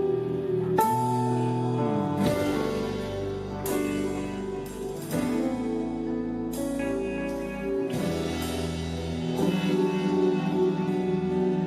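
Live rock band playing an instrumental passage: long held guitar notes, some bent up and down in pitch, over drums, with a cymbal crash every few seconds.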